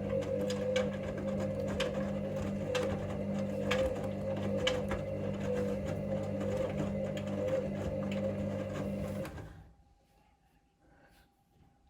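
Hoover Link washing machine tumbling its drum during the main wash: a steady motor hum with light clicks and knocks from the drum, which stops about nine seconds in as the drum pauses between turns.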